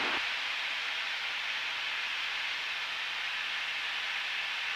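Steady, even hiss of cabin noise inside a Cessna 172 in flight: engine and airflow noise.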